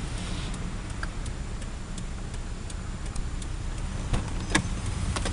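2007 Mitsubishi Lancer's engine idling with a steady low rumble and light ticking, with a few sharper clicks near the end.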